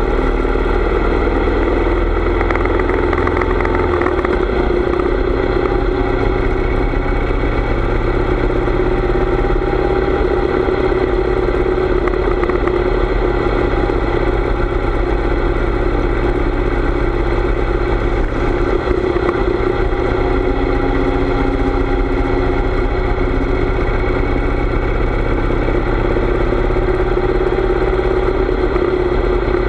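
Harley-Davidson V-twin motorcycle engine running steadily under way, its note shifting slightly about four seconds in.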